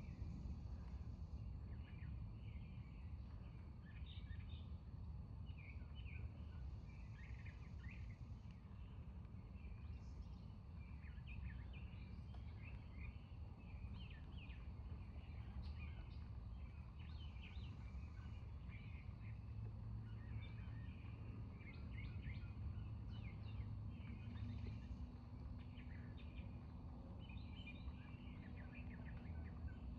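Birds chirping and calling, many short chirps over a steady low background rumble.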